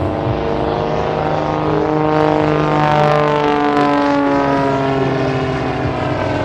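Pitts Special aerobatic biplane's piston engine and propeller running at power through a manoeuvre, the engine note sliding in pitch as the aircraft moves past. It is loudest about three seconds in.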